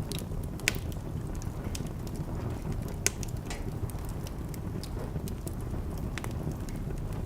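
Wood fire crackling in a fireplace, with irregular sharp pops over a steady low rumble. Two louder pops come just under a second in and about three seconds in.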